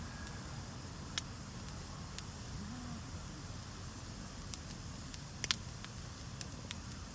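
Wood campfire crackling, with scattered sharp pops over a steady low rumble; the loudest is a quick double pop about five and a half seconds in.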